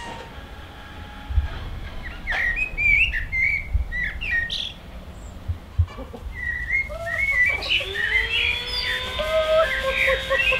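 Birds chirping in short, quick, gliding calls, in two spells. About halfway through, a steady held tone with overtones comes in beneath them.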